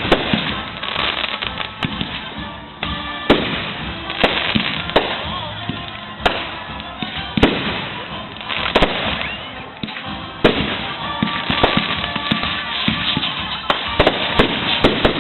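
Fireworks display: aerial shells bursting with a sharp bang every second or so, with crackling between the bursts.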